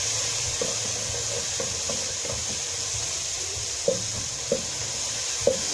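Chopped tomatoes sizzling in oil in a stainless steel pot while a wooden spoon stirs them, knocking against the pot now and then, most sharply a few times near the end.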